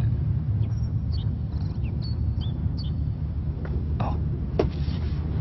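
Small birds chirping in short, high, scattered calls over a steady low rumble.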